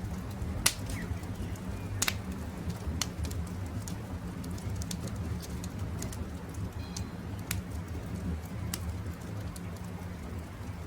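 Campfire crackling over a steady low rumble, with a handful of sharp pops, the loudest about a second and two seconds in. Faint bird calls come through now and then.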